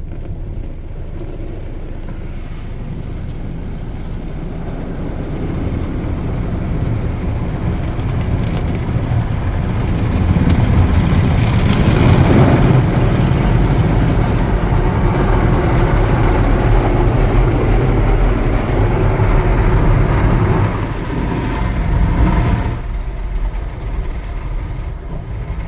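Automatic car wash working over the car, heard from inside the cabin: a steady rushing of the wash that builds up, is loudest in the middle, and falls away near the end.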